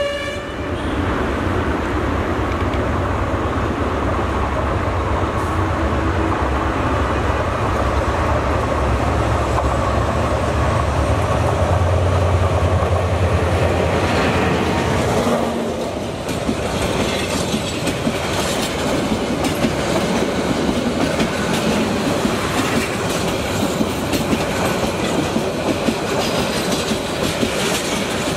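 A diesel locomotive hauling a passenger train passes at speed: its low engine rumble grows louder as it approaches and goes by about halfway through, then the coaches roll past with a steady clickety-clack of wheels over the rail joints.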